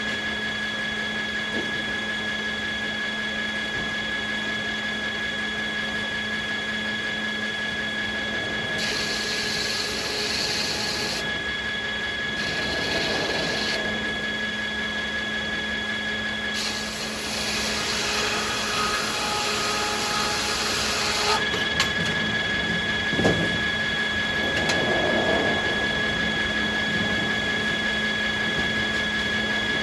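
Sawmill machinery running steadily with a constant whine, with stretches of hissier noise as the saws cut American beech, and a single sharp knock about three-quarters of the way through.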